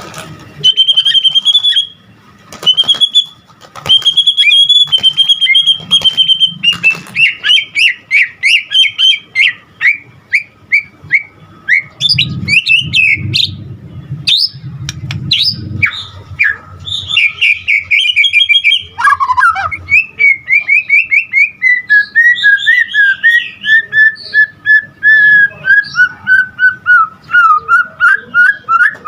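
White-rumped shama singing loudly and without pause: clear whistles, then fast runs of repeated chipping notes, and near the end a falling series of notes. The song is packed with phrases mimicked from other birds.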